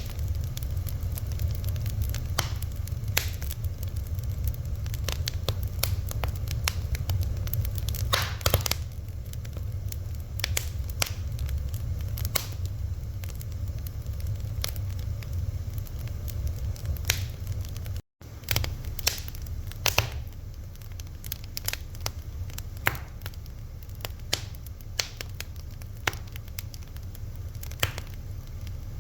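Fire crackling, with irregular sharp pops and snaps over a steady low rumble. The sound cuts out for an instant about two-thirds of the way through.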